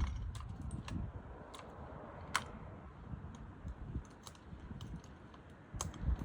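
A chainsaw cuts out right at the start. Then comes a low rumble with scattered light clicks and taps, about a dozen, irregularly spaced.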